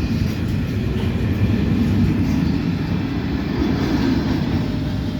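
Intermodal freight train cars rolling past: a steady rumble of steel wheels on rail.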